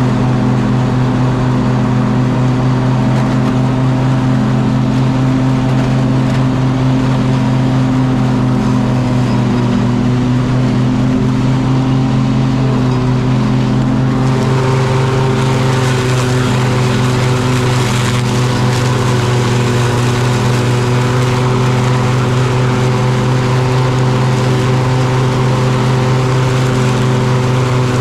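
Craftsman riding lawn mower engine running steadily at an even speed, newly repaired with replacement bearing pulleys fitted. About halfway through a brighter hiss joins the engine sound.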